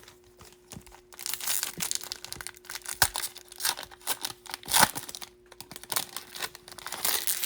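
A Bowman baseball card pack's foil wrapper being torn open and crinkled, a dense crackle starting about a second in.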